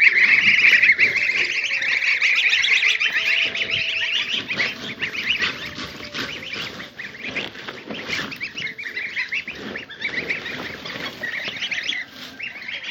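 A flock of domestic poultry, ducks among them, calling noisily all at once: a dense chatter of overlapping quacks and squawks, loudest at first and thinning somewhat after about four seconds.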